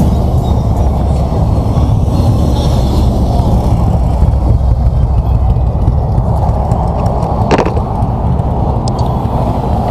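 Steady low rumble of highway vehicle traffic, with a single sharp click about seven and a half seconds in.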